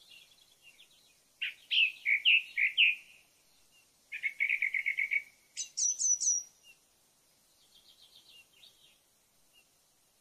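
A songbird singing a few short phrases of quick repeated notes, including a rapid trill, with fainter phrases near the end.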